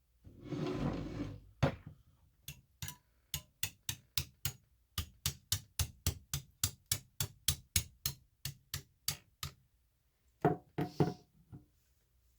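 A short scrape, then a hammer tapping steadily along a crack in a fossil-bearing rock slab to split it open: light, even strikes at about four a second, a pause, then a few harder strikes near the end.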